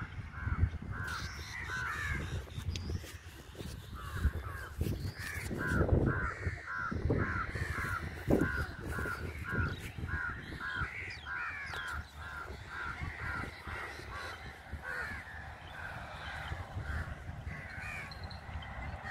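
Bird calls in a long series of short, repeated notes, about two or three a second, over a low rumble with a few thumps about six to eight seconds in.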